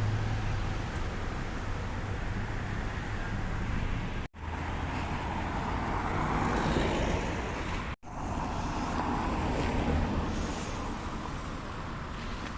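Street traffic noise: a steady rumble of passing cars and engines, cut to silence for a moment twice, about four and eight seconds in.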